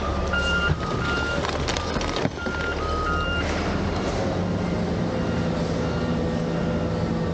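Garbage truck's diesel engine running steadily while its reversing alarm beeps in a repeated pattern; the beeping stops about halfway through. A single sharp knock about two seconds in.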